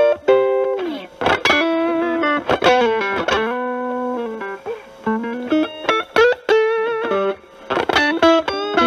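Stratocaster with single-coil pickups played through a Proco RAT2 distortion stacked with an Ibanez TS9 Tube Screamer, its gain at 10 o'clock, into a Marshall Valvestate amp: a distorted lead guitar playing single-note blues phrases. The phrases include string bends and slides, with short pauses between them.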